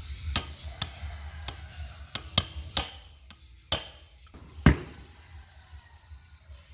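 A series of about eight sharp metal taps and clinks, irregularly spaced, some ringing briefly, the loudest a little past the middle: tools and metal parts being handled during work on an old dynamo.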